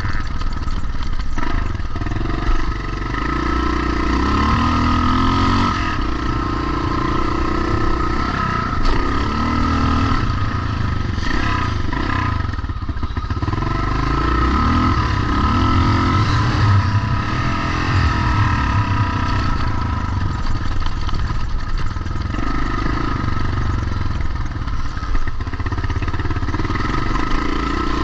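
Several vintage motocross bikes racing round the track, their engines revving up and falling back again and again over each other.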